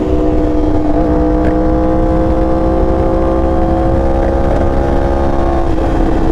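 Motorcycle engine running at a steady cruise, its pitch creeping slightly upward and shifting a little near the end, over a low rumble of wind and road noise.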